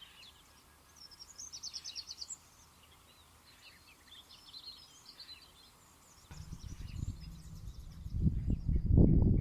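Small birds singing and calling, with chirps and quick trills. About six seconds in, a low rumbling, buffeting noise starts and grows louder near the end, drowning them out.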